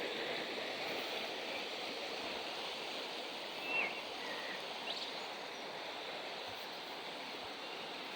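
Steady rushing of a flowing river, with a brief high chirp a little under four seconds in.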